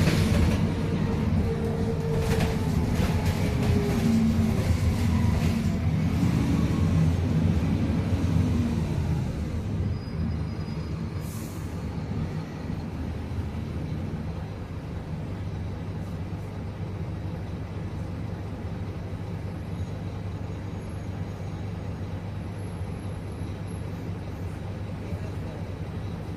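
Scania K310UA articulated bus's diesel engine pulling away, its pitch gliding as it works through the first several seconds, then settling to a steadier, quieter hum from about ten seconds in. A short hiss comes just after that.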